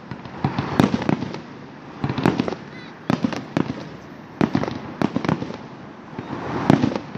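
Aerial firework shells bursting in a display: a string of irregular bangs, some in quick clusters of two or three, each followed by a short rolling echo.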